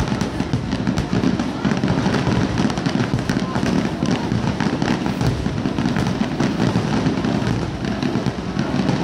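Fireworks display in full swing: shells bursting one after another in a continuous barrage, with a dense rapid crackling of many small pops over a heavy unbroken rumble.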